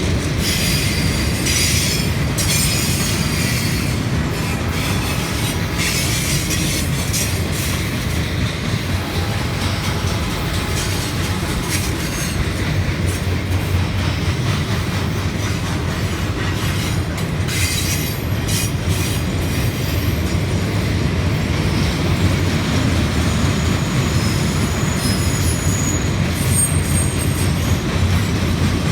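A freight train rolling past at a steady loudness, its steel wheels clattering on the rails, with high wheel squeal coming and going. This is most likely a Norfolk Southern loaded rail train carrying long welded rail.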